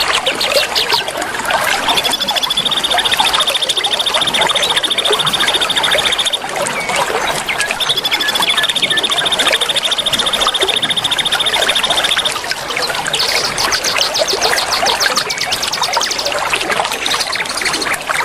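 Steady trickling water with small birds calling over it: a fast, high, even trill held about four seconds, twice, and bursts of rapid high chirping near the start and again in the last third.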